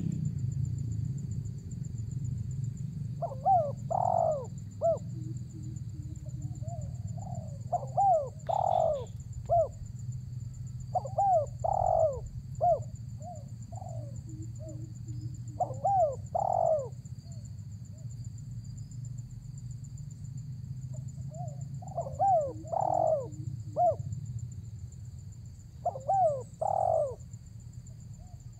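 Spotted dove (tekukur) cooing: six phrases of several rising-and-falling coos each, a few seconds apart, as a male calls out to a rival. A steady low rumble and a thin high whine run underneath.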